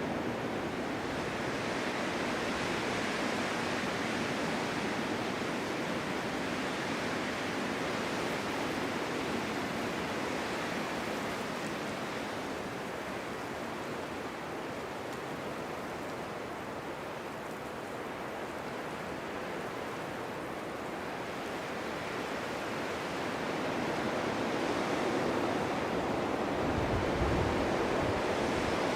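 Strong winter wind blowing snow through a forest in a steady rushing hiss, easing a little midway and building again near the end with a brief low gust rumble.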